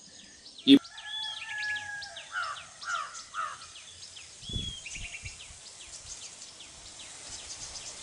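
Birds calling: a long drawn call begins about a second in and breaks into falling notes, over many quick high chirps from small birds. A sharp click comes just before it, and a dull low thump comes around the middle.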